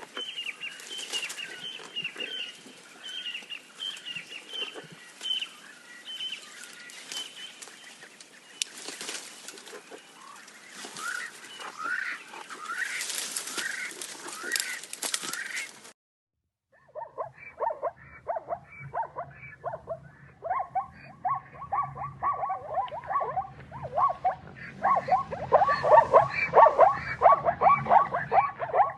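Two animal clips joined by a cut. First comes a long stretch of bird chirping and calling. After about a second of silence, a rapid run of short, squeaky animal calls follows over a low hum, growing louder near the end.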